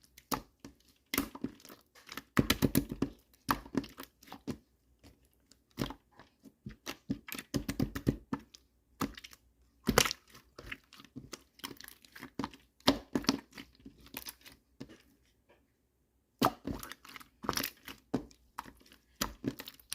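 Translucent slime being squished, pressed and stretched by hand, giving irregular runs of sticky clicks and small air-bubble pops. There is a short pause about three-quarters of the way through.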